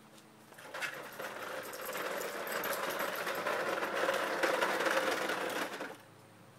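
Big toy truck rattling as it rolls over the ground, growing louder over a few seconds and stopping abruptly near the end.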